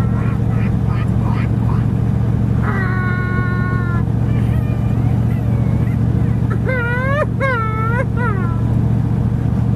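Steady low drone of a truck's engine and road noise heard inside the cab. Over it come a held high tone about three seconds in and a run of four short rising-and-falling calls about seven seconds in.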